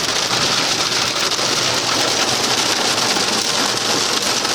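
Heavy rain and hail coming down hard in strong downburst winds: a loud, steady hiss made of countless fine impacts.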